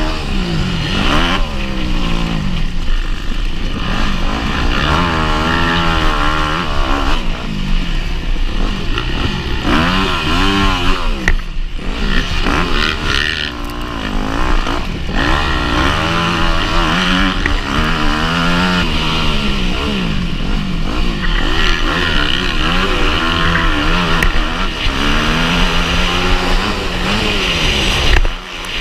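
Motocross bike engine at race pace, its revs rising and falling over and over as the throttle is opened and shut. It drops away briefly near the end, then picks up again.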